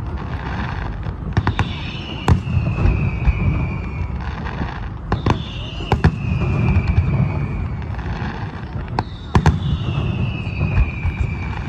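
Fireworks going off: sharp bangs and crackles, with three long whistles about four seconds apart, each falling slowly in pitch.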